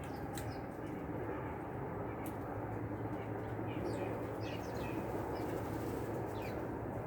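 Small backyard birds giving short, high, downward-sliding chirps, a handful scattered through, over a steady low rumble of background noise. One sharp click about two seconds in.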